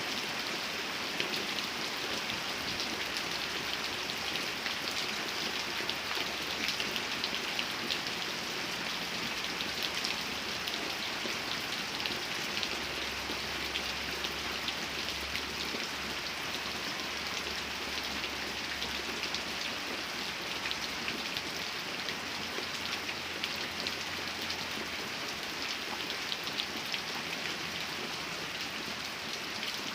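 Steady rain falling on a surface, a dense even patter of many small drop ticks.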